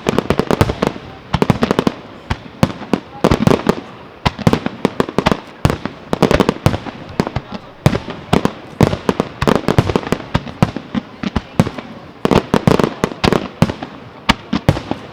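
Fireworks display: a fast, unbroken run of sharp bangs and crackling reports, bunched in dense clusters about every second.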